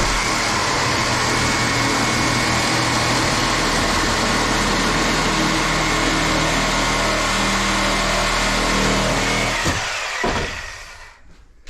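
Electric power saw with a wood blade running steadily, then switched off about ten seconds in, falling in pitch as it spins down to a stop.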